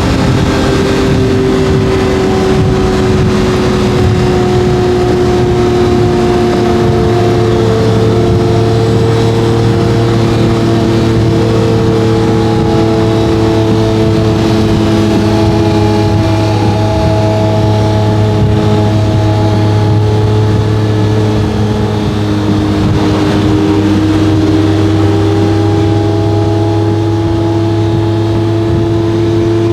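Lamborghini Murciélago LP640's V12 engine through a straight-piped Fi exhaust, running steadily under light load. Its pitch sinks slowly for most of the stretch, then climbs again near the end.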